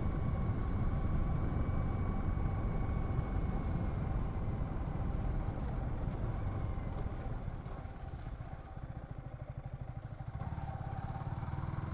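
Yamaha R15 V3's single-cylinder engine through its stock exhaust, running under way. About eight seconds in it eases off to a low, slow pulsing, then picks up a little again near the end.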